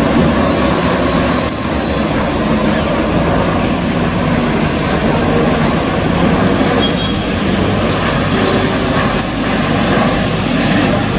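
Jet engines of an Airbus A350-900 airliner making a loud, steady rushing noise.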